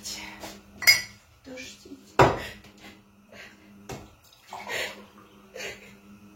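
Cups and dishes clinking and knocking as a drink of water is fetched, with two sharp clinks loudest about one and two seconds in.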